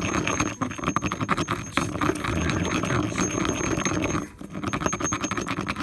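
Gritty scraping of dry earth pigment and ground stone being ground by hand around the inside of a stone mortar: a rapid rasping run of small scrapes, with a brief let-up about four seconds in.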